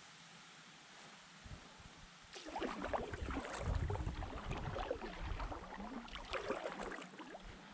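Irregular splashing and knocking of water against a small boat's hull, as with paddling or shoving off. It starts about two and a half seconds in and dies away near the end.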